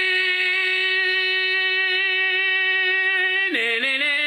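A man singing one long, steady note for about three and a half seconds, then dropping lower into a shorter, wavering note near the end.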